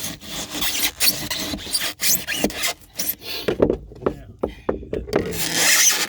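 Old pour-in polyurethane flotation foam in a boat hull being cut and worked loose: irregular scraping and rubbing strokes with squeaks, and a longer scrape near the end.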